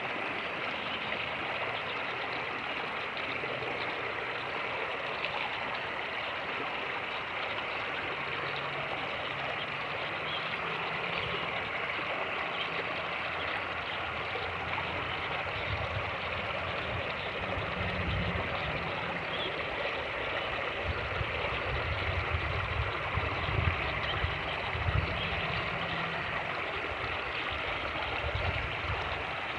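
Fast-flowing creek rushing steadily over rapids. About halfway through, an irregular low rumble comes and goes beneath it.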